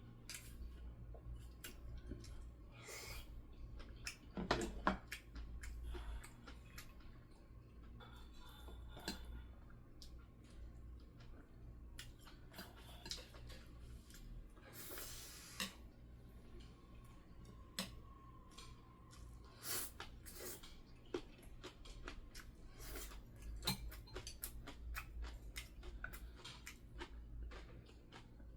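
Eating sounds: chewing, with frequent short clicks and taps of utensils against dishes.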